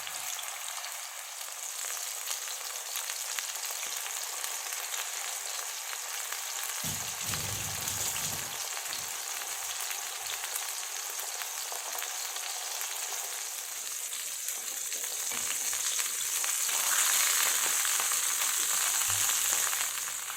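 Chicken patties shallow-frying in hot oil in a pan: a steady sizzle that grows louder about three-quarters of the way through.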